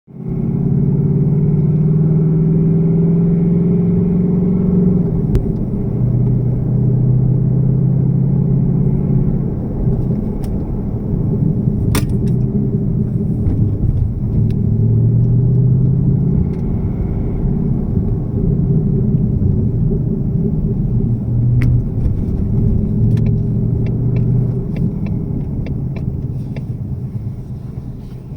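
2018 Mustang GT's 5.0-litre Coyote V8 idling after a cold start, with the engine rattle that the owner takes for piston slap. Sharp clicks come through now and then, several in quick succession near the end.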